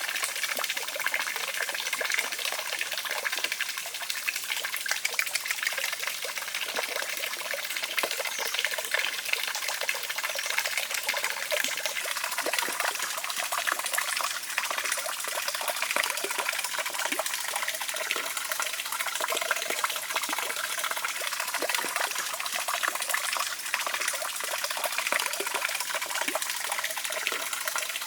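Water trickling and splashing steadily, a continuous crackly wash with many small drips and splashes.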